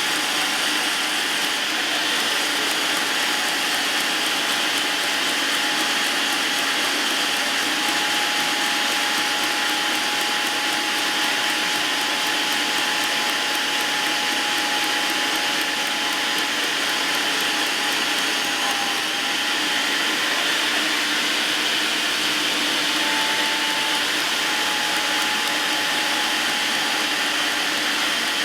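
GoWise 800-watt electric meat grinder's motor running steadily in forward while carrots are pushed through the coarse grinding plate: an even whirring hum with a thin high whine.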